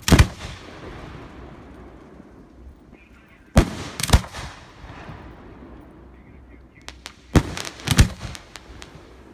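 Aerial firework shells bursting with sharp bangs. There is one at the very start, two about half a second apart near the middle, and two more near the end among a few smaller pops.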